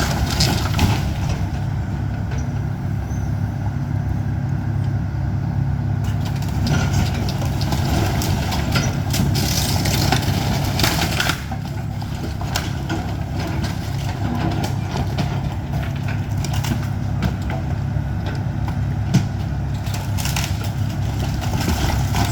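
Excavator's diesel engine running steadily during house demolition, with scattered cracks and knocks of the structure being broken apart.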